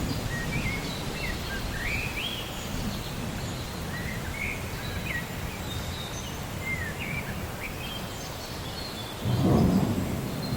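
Rainforest ambience: birds chirping and calling over a steady low rumble. A sudden low rumble, the loudest sound, comes near the end.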